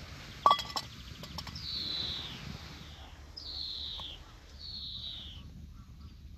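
Three drawn-out bird calls, each sliding down in pitch over about a second, preceded about half a second in by a single sharp click with a short ring.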